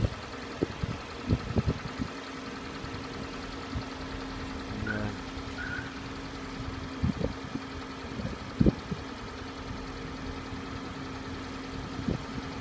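Hyundai ix35's 2.0-litre petrol engine idling steadily, its start-up knock now gone, with a few irregular sharp knocks scattered through.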